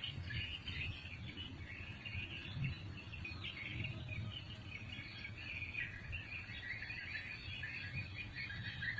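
A chorus of small birds chirping continuously, over a low rumbling background noise.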